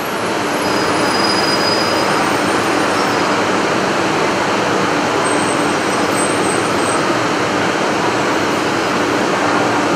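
JR 300 series Shinkansen train running slowly alongside the platform and braking to a halt: a steady rumble and hiss of the moving cars, with a faint high whine about five seconds in.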